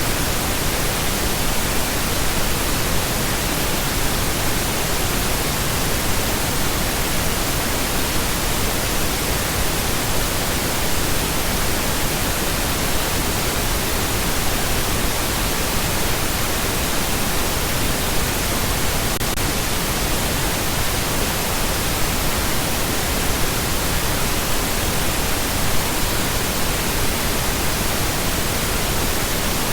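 Continuous pink noise: an even, steady hiss spread across the whole range, with no changes.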